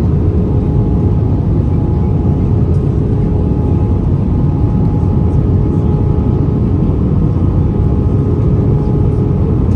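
Steady cabin noise of an Airbus A320-214 in flight, heard beside the wing: a constant rush of airflow and drone of the CFM56-5B engines, with a steady lower hum and a fainter higher one above it.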